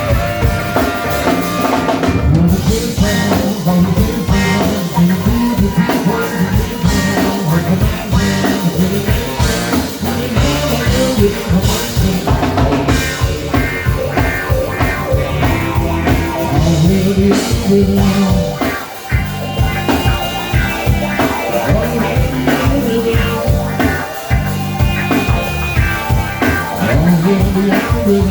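Live band playing an instrumental passage with drum kit, bass and keyboards, with a steady beat.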